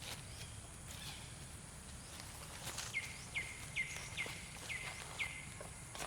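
An animal's call repeated six times about halfway through: short chirps that drop in pitch, about two a second, over a background of light rustling and clicks.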